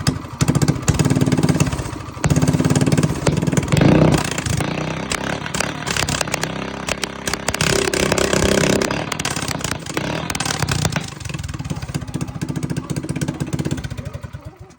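Minibike's single-cylinder small engine running through a short header exhaust, with a couple of brief rises in revs, then settling and fading off toward a low pulsing idle before the sound cuts off.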